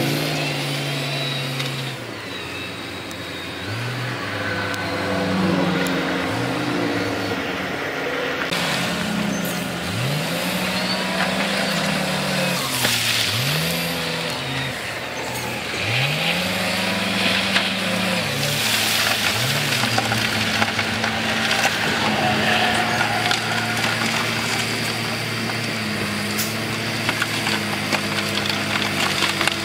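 Diesel engine of heavy earthmoving equipment working under load, revving up and falling back again and again every few seconds. Occasional clanks and rattles are heard over it.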